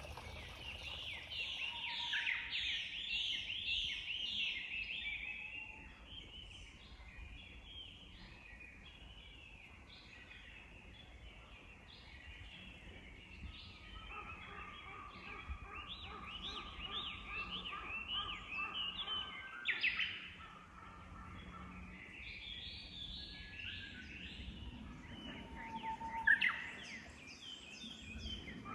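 A chorus of small songbirds chirping and trilling in spring woodland, many quick repeated notes overlapping, busiest at the start and again in the second half.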